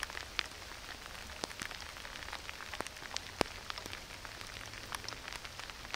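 Rain falling, a soft steady hiss with irregular sharp ticks of individual raindrops striking close by.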